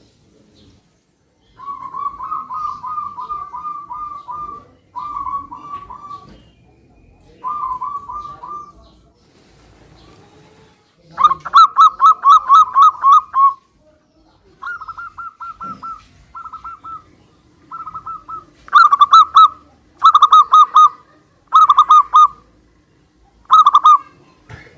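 Zebra doves (perkutut) cooing in repeated trilled phrases of rapid notes, more than one bird answering another. The loudness of the phrases varies, with the loudest phrase near the middle and several short, loud phrases toward the end.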